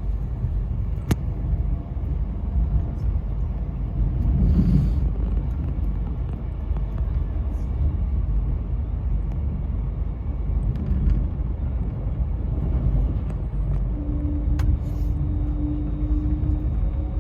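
Steady low rumble of travel at speed alongside a running freight train, with a few sharp clicks and a brief steady tone near the end.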